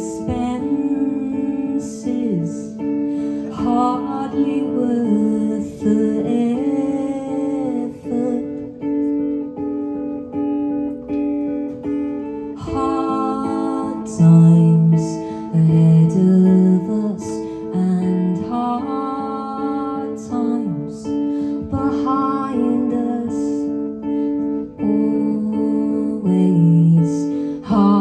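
Guitar playing an instrumental passage of a song live: a repeating pattern of picked and strummed notes.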